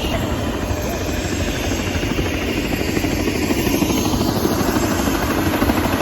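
Helicopter running close by, its rotor beating rapidly over a steady engine noise, as in a helicopter landing.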